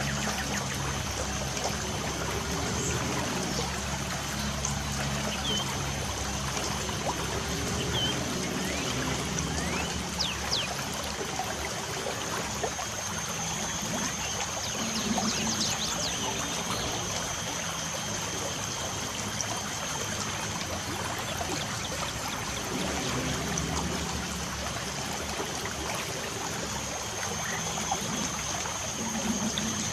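Light rain falling steadily with water trickling, and a few short bird chirps scattered through. A steady high-pitched tone runs underneath.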